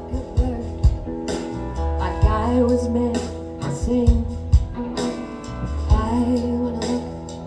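Live band music: a country-rock song with a steady drum beat, bass and guitar under a wavering lead melody line.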